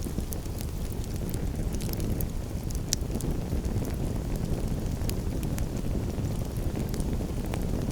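Campfire crackling: scattered sharp wood pops and snaps, a sharper one about three seconds in, over a steady low rumble.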